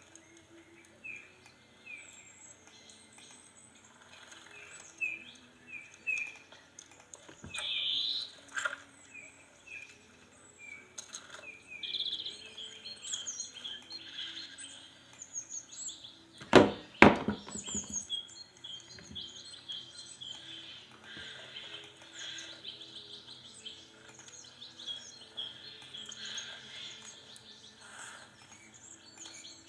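Small birds chirping and singing in quick, repeated high notes, with two sharp knocks close together about halfway through.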